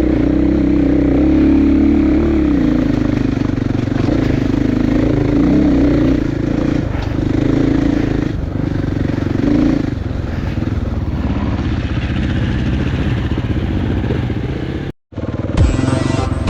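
Single-cylinder four-stroke enduro motorcycle engine, a KTM 450 EXC, revving up and down under throttle while riding off-road. Near the end it cuts off abruptly for a moment.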